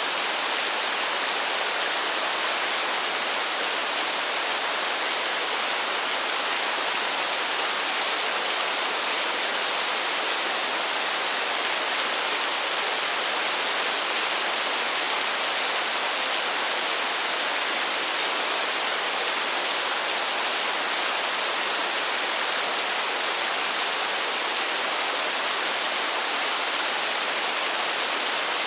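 Steady, even hiss of heavy rain, with no single drops standing out.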